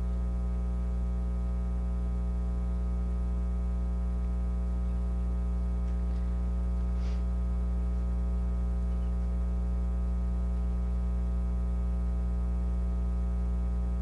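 Steady electrical mains hum with a buzzy stack of overtones, unchanging throughout, with a couple of faint brief ticks partway through.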